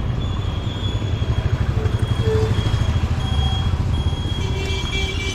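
Road traffic, with a vehicle engine running close by in a steady, throbbing low rumble.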